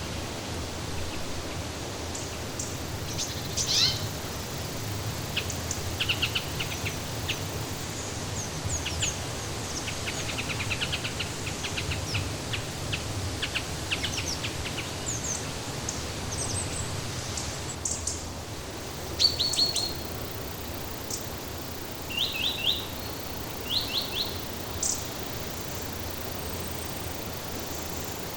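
Small birds chirping in short, quick trills and high tweets, scattered and irregular, over a steady rushing background hiss. The chirps are loudest around a quarter of the way in and in a few clusters near the end.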